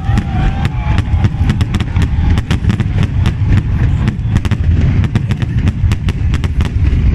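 Fireworks going off in rapid, dense succession: many sharp cracks and bangs over a heavy low rumble.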